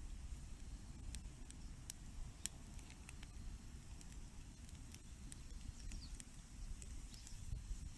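Wood campfire crackling faintly: scattered sharp pops and ticks over a low steady rumble.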